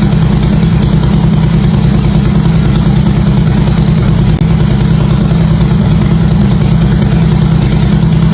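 Harley-Davidson V-twin engine idling steadily through its exhaust.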